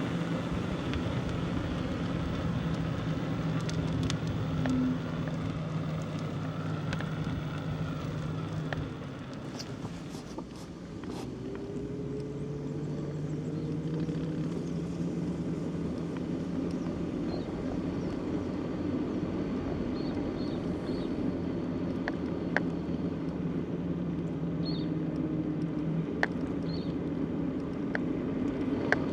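A motor runs with a steady hum throughout, with scattered light clicks. It drops briefly about nine seconds in, then returns with a pitch that rises for a few seconds.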